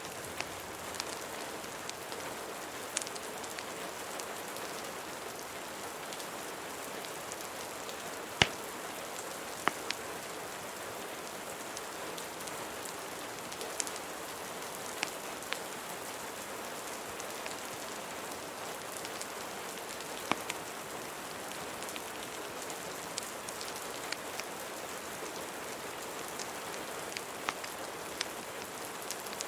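Steady rain hiss with a wood fire crackling under it: scattered sharp pops, the loudest about eight seconds in.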